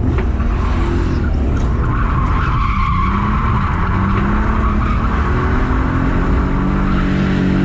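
Drift car sliding with its tyres squealing while the engine runs at high revs, its pitch rising and falling.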